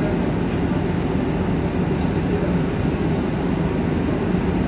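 Steady rumble of an EN57AKM electric multiple unit running along the line, heard from inside the carriage by the doors.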